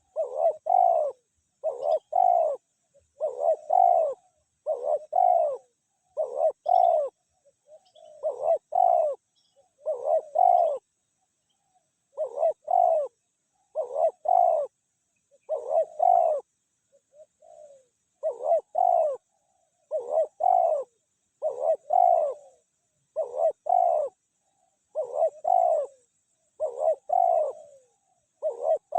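Spotted dove cooing over and over: a short phrase of two or three coos roughly every one and a half to two seconds, with a brief pause about twelve seconds in. It is the male's calling coo, used here by a decoy bird to call in a wild dove.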